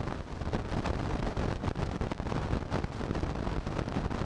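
Strong wind buffeting the microphone, over a steady rushing roar of water and spray.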